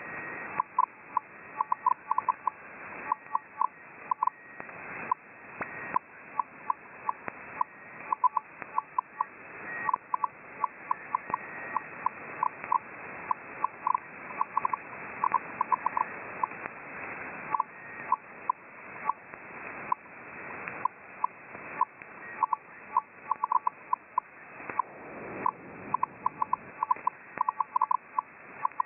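Shortwave receiver in upper-sideband mode on 9675 kHz, playing an unidentified signal: short beeps at irregular intervals, often in quick runs of several, with a few fainter higher beeps, over steady band hiss.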